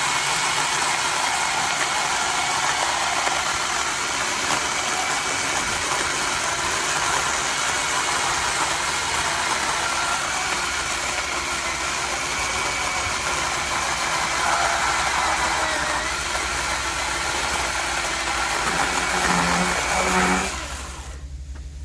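Worcraft CGC-S40Li 40V cordless electric chainsaw running steadily, then cutting off about twenty seconds in.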